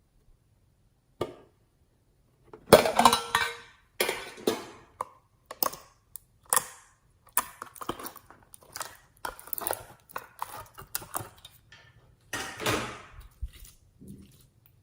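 Irregular crackling, clicking and crunching of slime supplies being handled and mixed by hand, a dozen or so separate short sounds with the loudest about three seconds in.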